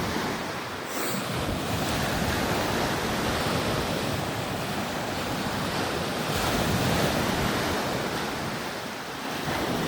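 Steady rushing noise, as of surf or wind, swelling slowly after the middle and easing near the end.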